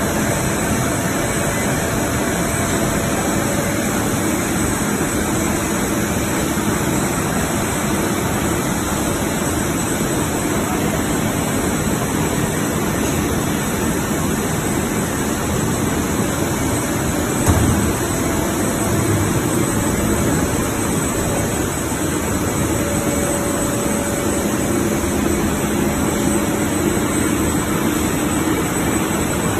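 Industrial fabric washing machine and the mill machinery around it running: a loud, steady mechanical rush with a faint hum, and a single brief bump a little past halfway.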